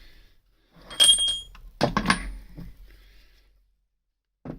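Metal tools or parts handled on a bench: two knocks with a short bright metallic ring, about a second in and again a moment later.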